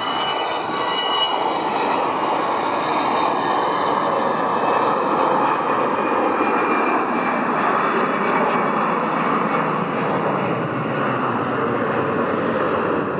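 Airbus A320-214's CFM56 jet engines at takeoff power: a high fan whine in the first few seconds fading into a steady loud rushing noise.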